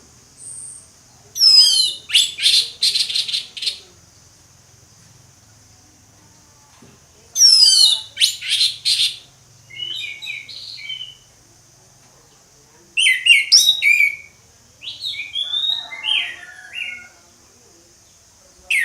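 Orange-headed thrush (anis merah) singing loud, full song. It gives about five phrases of a second or two each with short pauses between, each mixing quick falling whistles with rapid run-together notes.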